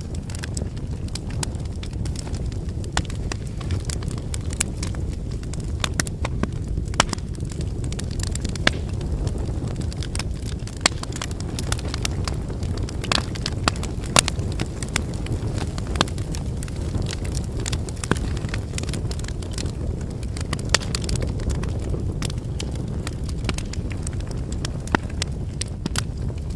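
Wood fire burning: a steady low rush of flames with frequent sharp, irregular pops and crackles from the burning firewood.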